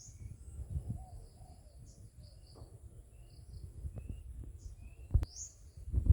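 Small birds chirping in short, high notes with a few brief whistled slides, over a steady low rumble. A sharp knock about five seconds in.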